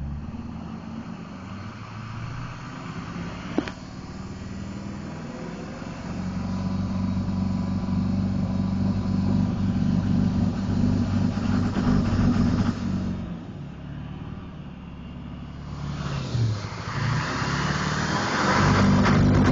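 Duramax 6.6 L V8 turbodiesel running and being brought up in revs twice, easing off in between. At around 3000 rpm when warm it starts to miss; the owner suspects the ECM is dropping the crankshaft position sensor signal at higher revs. A single sharp click a few seconds in.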